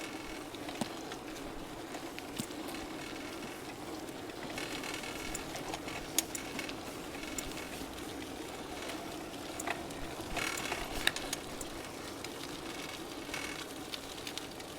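Bicycle freewheel ticking as the rider coasts, over the steady rolling noise of tyres on a path, with scattered small clicks.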